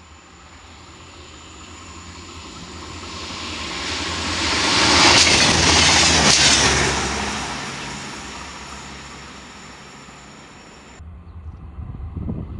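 SNCF X72500 diesel railcar passing at speed: a rushing rumble that swells to a peak midway, with a couple of wheel clicks over the rail joints, then fades away. About eleven seconds in it cuts off abruptly, giving way to a low rumble.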